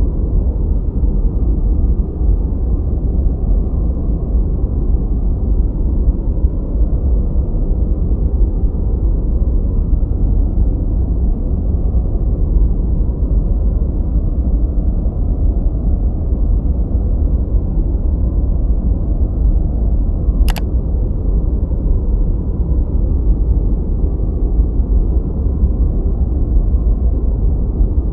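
Continuous masking noise track, steady and unchanging, deep and muffled with almost nothing in the treble. A brief faint click about twenty seconds in.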